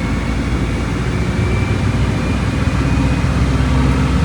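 Volkswagen Volksbus 17.230 Euro 6 bus engine running steadily, a loud low drone.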